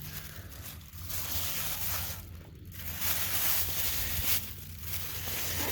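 Rustling and crunching of dry leaves and undergrowth, swelling and fading in waves.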